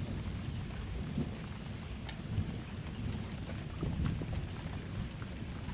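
Steady summer rain falling, with scattered drop hits and a low rumble underneath.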